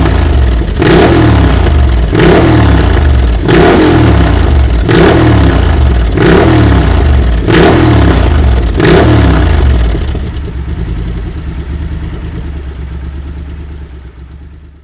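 Triumph Scrambler 1200's parallel-twin engine running through a TEC Flank 2-into-1 exhaust, blipped hard about seven times, roughly one rev every second and a half. It then settles to a steady idle that fades away near the end.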